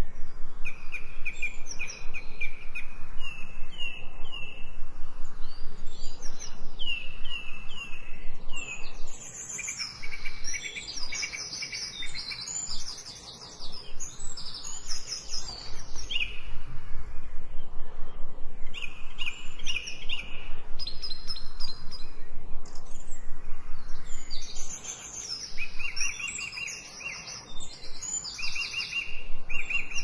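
Several songbirds singing: phrases of repeated short whistled and chirped notes, busier in places, with a couple of brief quieter pauses.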